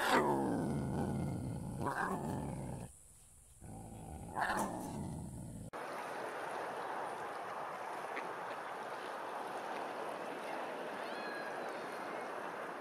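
A lion calling: one long call falling in pitch, then shorter calls about two and four and a half seconds in. About six seconds in it gives way to a steady rushing of open water with a few faint bird calls.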